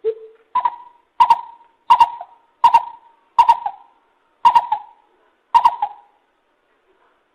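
Lesser coucal calling: one low hollow note, then a series of seven higher hollow notes about two-thirds of a second apart, with the last two spaced a little wider, stopping about six seconds in.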